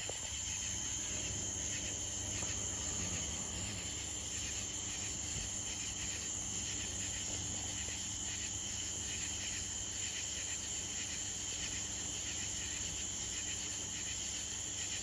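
Steady high-pitched chorus of insects, continuous and unchanging.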